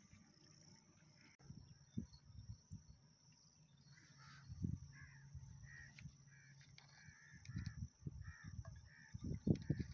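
A bird calling over and over in short, evenly spaced calls from about four seconds in, over low rumbling and thumps.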